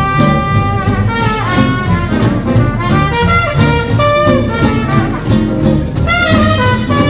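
Small hot-jazz swing band playing an instrumental chorus: a brass horn carries the melody in held and moving notes over the rhythm section's steady swing beat.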